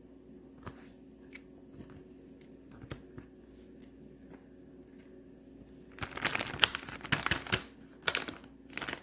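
Faint clicks of a knife cutting soft wax melt slices. About six seconds in, a loud, rapid crinkling and rattling starts as the cut wax pieces are handled in plastic packaging.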